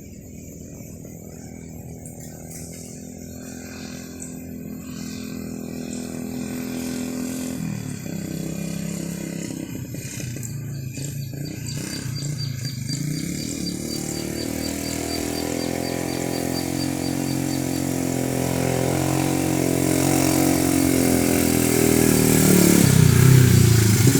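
A motor vehicle's engine approaching and growing steadily louder, its pitch shifting a couple of times as it changes speed, dipping and rising again near the end.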